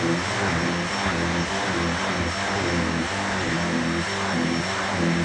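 Vacuum cleaner running steadily, with a low hum that shifts up and down in pitch.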